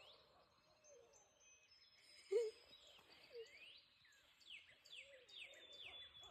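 Faint owl hoot about two seconds in, followed by a few fainter hoots, with small birds chirping in short falling notes near the end.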